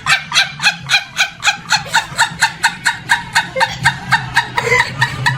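A rapid cackle: short, high, bending notes repeated evenly at about five a second, like a hen clucking or a person cackling with laughter.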